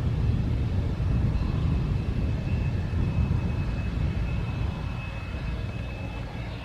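Jet airliner engines running with a steady low rumble and a thin high whine, easing off slightly near the end.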